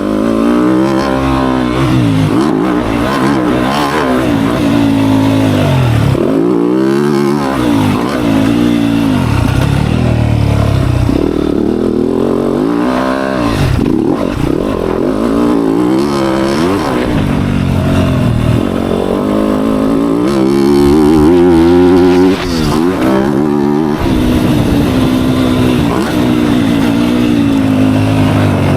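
Dirt bike engine revving hard and easing off again and again as it is ridden, its pitch climbing and dropping every second or two through throttle changes and gear shifts. It is loudest about three quarters of the way through.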